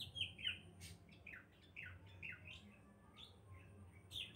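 Birds chirping faintly in the background: a run of short, quick chirps that slide downward in pitch, coming more thickly near the end. One faint click about a second in.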